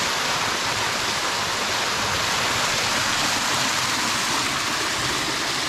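Small rainforest waterfall rushing steadily close by, an even, unbroken hiss of falling water.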